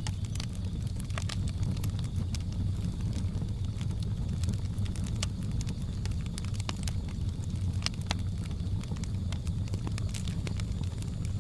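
Wood fire crackling, with frequent irregular sharp pops and snaps over a steady low rumble. A faint steady high buzz runs in the background.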